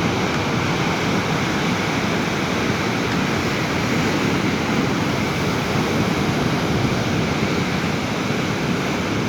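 Sea surf washing on the shore, a steady, even rush of waves.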